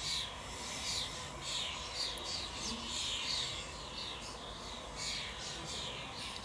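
A flock of European starlings with their fledglings calling all at once: a racket of many overlapping, downward-sweeping chirps.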